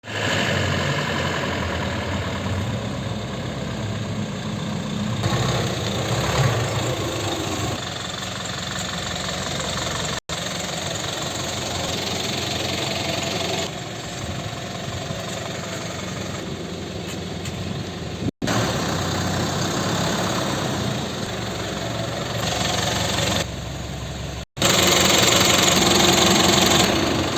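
Engine of a 2019 Eicher 10.5 4x2 cargo truck running, heard in several stretches joined by abrupt cuts, louder for the last few seconds.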